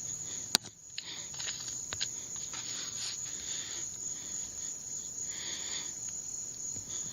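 Crickets chirring in a steady high drone, with a single sharp click about half a second in.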